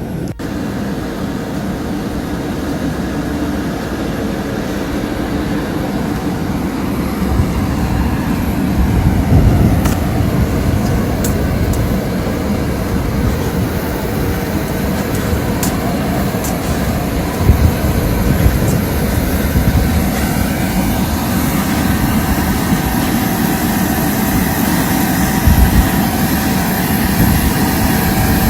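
Aircraft engines running on the ground: a steady high whine held over a heavy, wavering rumble.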